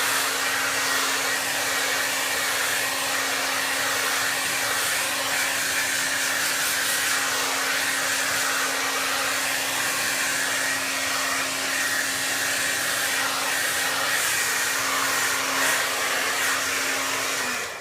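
Hair dryer blowing steadily with a constant hum, switched off just before the end.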